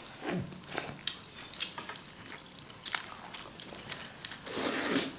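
People eating noodles with beef: chewing and mouth sounds, with scattered short sharp clicks and a longer noisy stretch near the end.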